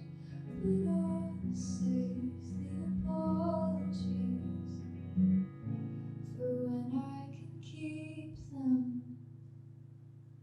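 A live song: a singing voice over acoustic guitar, playing the closing bars and fading out near the end.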